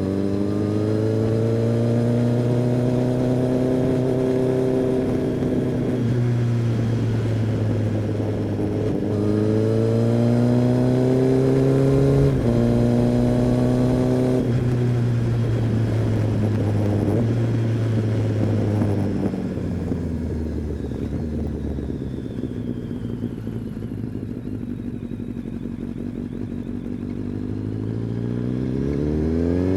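Kawasaki ZX-10R's inline-four engine and exhaust under way, seemingly from the rider's position. The engine pulls up through the revs with a drop in pitch at each gear change, about 6 and 12 seconds in. From about 19 seconds it rolls off to a low, quieter note, then revs up again near the end.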